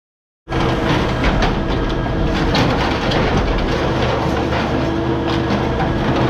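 A motor vehicle running, a steady low engine hum under constant irregular rattling and clicking, starting abruptly about half a second in.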